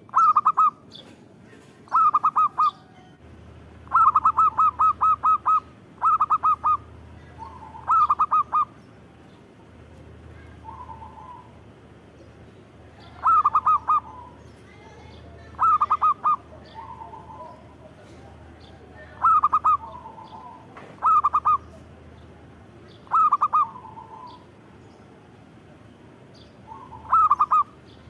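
Zebra dove (perkutut) singing: short phrases of quick, staccato cooing notes, repeated about every two to three seconds, with a longer run of notes about four seconds in and some phrases ending in a softer, lower coo.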